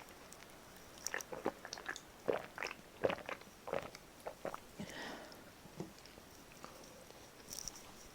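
Close-up crunching and chewing of karaage, Japanese fried chicken: a quick run of crisp bites through the fried coating from about a second in, easing to softer chewing after about five seconds.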